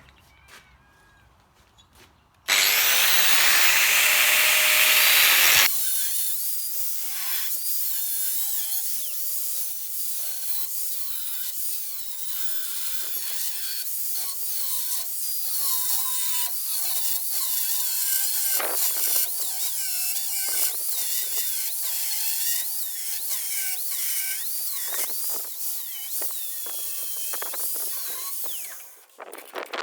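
A power tool working on metal, its whine wavering up and down in pitch as it works. It starts after a short quiet spell and a few seconds of loud steady hiss.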